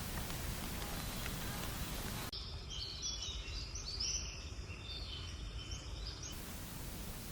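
Songbirds chirping in many short, high calls for about four seconds between stretches of steady hiss; the hiss cuts off sharply about two seconds in and comes back near the end.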